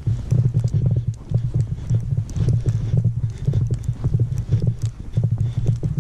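Footsteps crunching through deep fresh snow at a steady walking pace, about two steps a second, close to the microphone.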